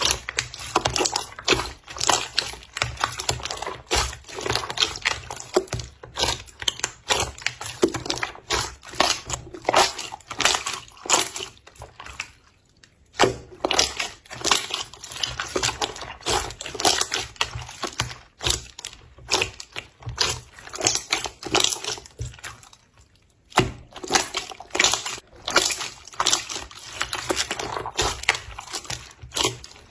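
Wet, watery slime being squished and pressed by hand, with a dense run of irregular wet squelches and crackles. Two brief pauses come about halfway through and again about three quarters through.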